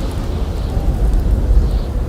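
Blizzard wind blowing hard as a steady, heavy low rumble, with a few faint crackles of a campfire.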